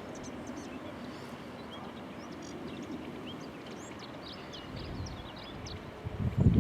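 Small birds chirping repeatedly over a steady low rumble. Near the end comes a run of loud low thuds.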